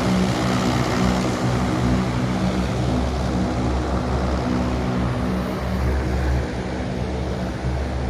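Propeller airplane engines droning steadily overhead, a constant low hum that eases slightly over the last couple of seconds.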